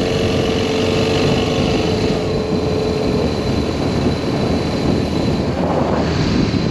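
BMW R1200S boxer-twin engine running under way, with heavy wind and road noise. A steady whine in the sound stops about three seconds in.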